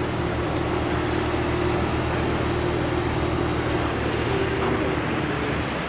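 A car engine running steadily at low revs, with an even, rapid pulse in its note.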